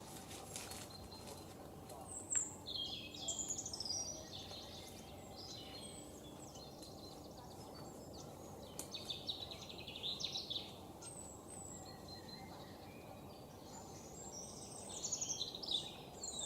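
Songbirds singing in quick bouts of chirps and trills, three bursts a few seconds apart, over a steady background hiss of outdoor ambience.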